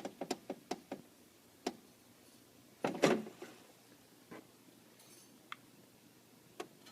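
Miele bean-to-cup coffee machine going quiet after brewing: a quick run of light clicks, a louder clunk about three seconds in, then a few single clicks.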